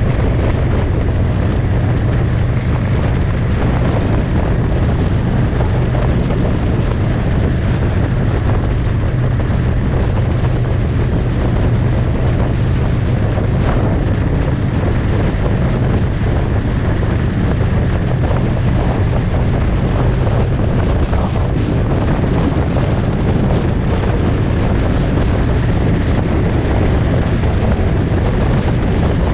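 Motorcycle riding at a steady speed: a constant low engine drone under heavy wind noise on the microphone.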